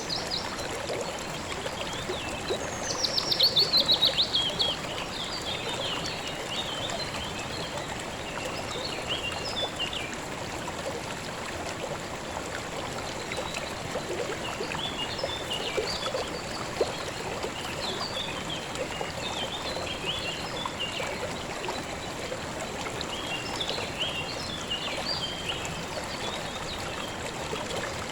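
River water flowing with a steady rush, while songbirds call on and off. About three seconds in, one bird gives a loud, fast trill that falls in pitch.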